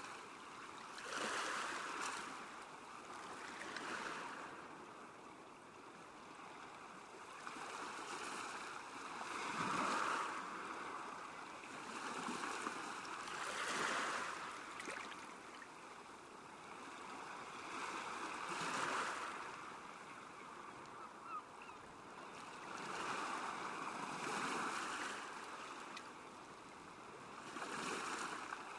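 Small waves washing onto a lakeshore, rising and falling in a swell every four or five seconds.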